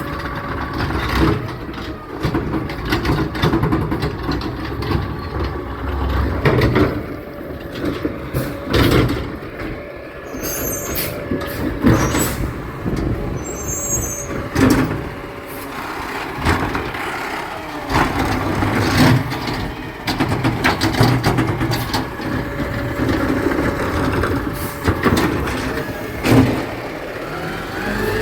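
Garbage truck running, with its engine rumbling under repeated clanks and knocks and a few brief high squeals.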